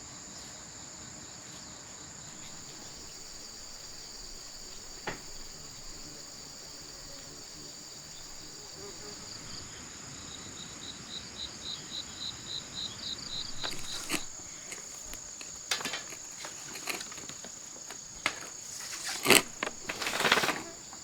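Steady high-pitched insect chorus in the background. About halfway through, a pulsing chirp call joins in at roughly five pulses a second. A few sharp knocks and thumps come in the last few seconds.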